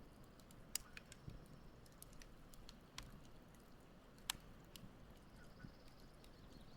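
Wood campfire crackling softly: scattered small snaps over a faint low hiss, with two sharper pops, one near the start and one a little past four seconds in.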